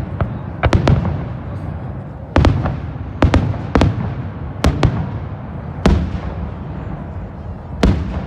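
Aerial fireworks shells bursting overhead: about a dozen sharp bangs at uneven intervals, some in quick pairs, with a low rumble between them.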